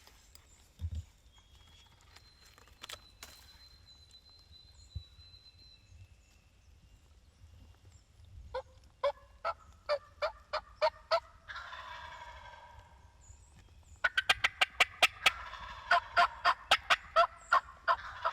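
Wild turkeys calling. About eight seconds in comes a run of about ten sharp clucking or yelping notes, then a warbling gobble. A longer, faster run of rattling notes fills the last four seconds.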